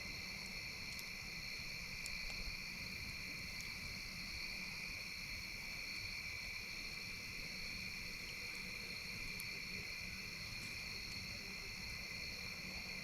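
A steady chorus of crickets chirring at night, with a few faint sharp pops from a wood campfire.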